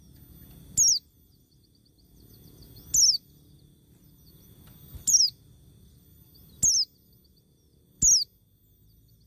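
A bird call repeated five times, each a short, high whistle sweeping downward in pitch, about every one and a half to two seconds, with faint high ticking between the calls.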